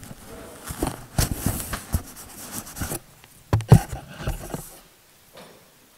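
Irregular knocks, clicks and rustling, like objects being handled and moved close to the microphone, with the loudest knocks about three and a half seconds in and quiet near the end.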